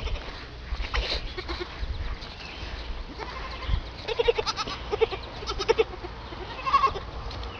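An animal giving a series of short, pitched bleat-like cries, about half a dozen of them between about four and seven seconds in.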